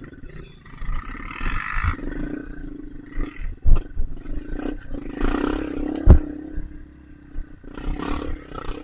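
Dirt bike engine revving hard in surges, with two sharp knocks about four and six seconds in.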